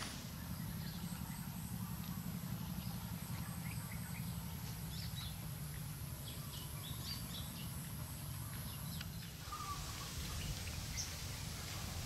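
Forest ambience: a few faint, scattered bird chirps over a steady low rumble, with a thin high steady tone that stops about nine seconds in.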